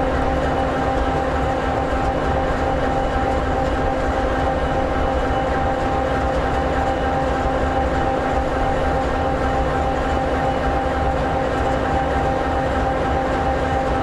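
EMD 16-710G3B sixteen-cylinder two-stroke diesel engine of an SD60E locomotive idling, a steady, even drone with a constant hum.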